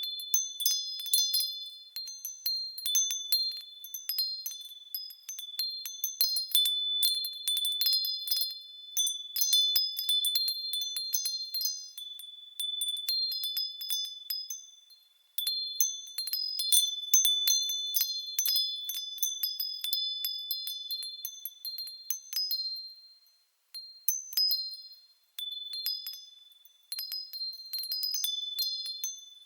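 Japanese wind bells (fūrin) swaying in the wind and ringing irregularly, a jumble of high, clear tones that overlap and decay. The ringing dies away briefly a few times in the second half before the bells are struck again.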